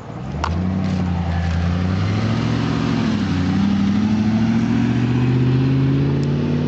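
Car engine pulling away and accelerating, its pitch rising slowly with a brief dip about three seconds in. A couple of sharp pops come through as well.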